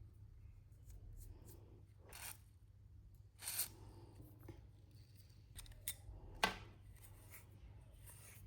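Faint, scattered clicks and scrapes of small grinder parts being handled during disassembly, the sharpest click about six and a half seconds in, over a low steady hum.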